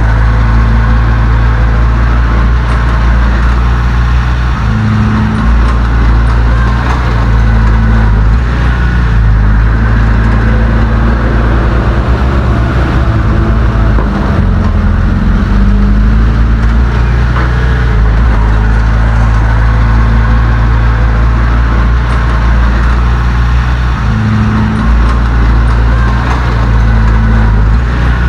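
Heavy diesel engine of earthmoving equipment running loud and steady, its low note shifting every several seconds as the load changes.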